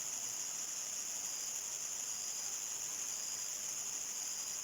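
Chorus of crickets singing: a steady, high-pitched trill that does not break.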